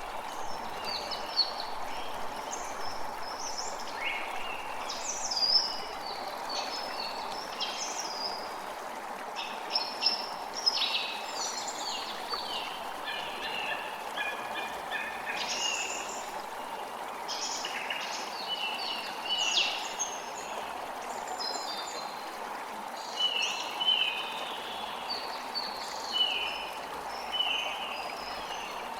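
Creek water flowing steadily, with many birds chirping and calling over it. In the last third, one bird repeats a short call every second or two.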